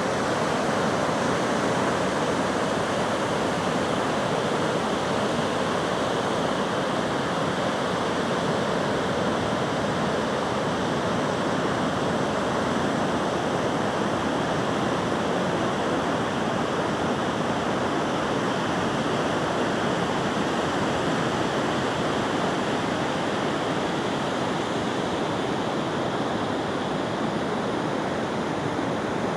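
Steady rushing water, an even unbroken wash of noise with no distinct surges.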